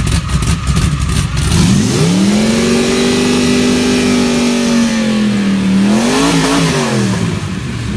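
Big lifted 4x4 truck's engine, just started, running rough and low, then revved up about a second and a half in and held high for about three seconds. It dips, gives a second short rev, and falls back to idle near the end. Loud.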